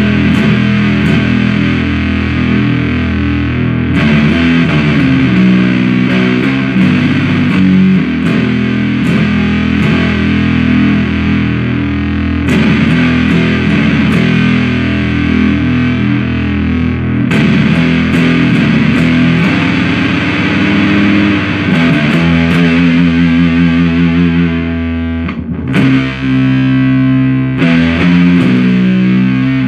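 Heavily fuzzed riffs with sustained notes played through a 77 Fuzz Blender, a Big Muff-style op-amp fuzz pedal, thick and dense in the low mids. The playing drops away briefly about 25 seconds in and again near the end.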